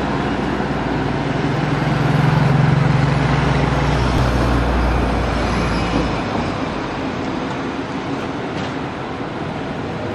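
Passenger trains rolling on the rails: a loud low rumble that drops away about six seconds in, then steadier wheel-on-rail noise as an SS8 electric locomotive hauling 25G coaches approaches.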